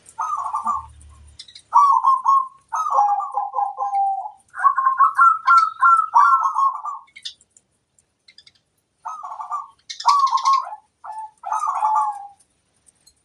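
Zebra dove (perkutut) cooing: several phrases of fast, rolling coo notes, a pause of about two seconds in the middle, then more phrases.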